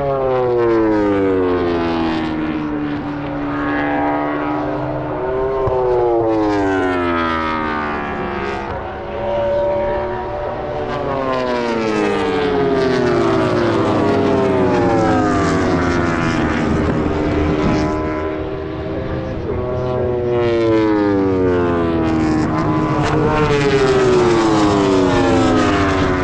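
MotoGP racing motorcycle engine at full racing revs. The pitch climbs sharply and then falls away over a few seconds, about five times: hard acceleration and braking through the corners.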